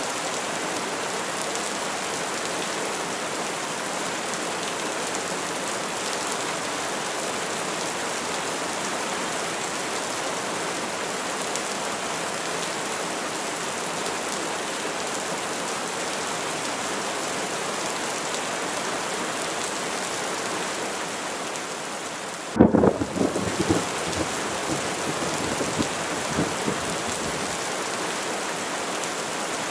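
Steady rain falling, with a sudden sharp crack of thunder about three-quarters of the way through, followed by a few seconds of rolling rumble.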